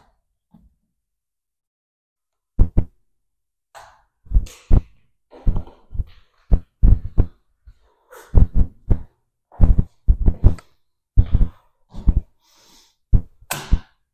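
A man breathing hard through an exercise: sharp, loud exhalations, some voiced like grunts, coming mostly in quick pairs after a quiet first two seconds or so.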